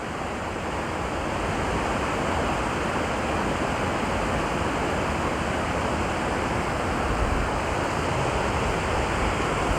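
Rain-swollen creek rushing steadily, running high after heavy overnight rain. Wind buffets the microphone as a low rumble in the second half.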